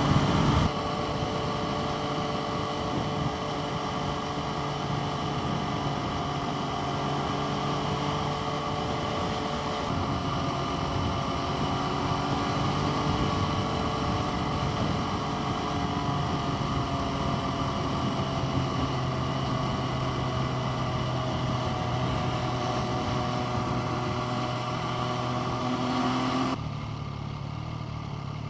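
MV Agusta Brutale 675's three-cylinder engine running steadily while the bike is ridden, its pitch slowly falling over the second half. About 26 seconds in the sound drops abruptly to a quieter, duller note.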